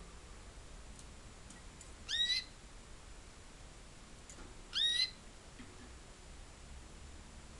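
Two short, rising chirps from canaries, one about two seconds in and another about five seconds in, each a bright note with overtones.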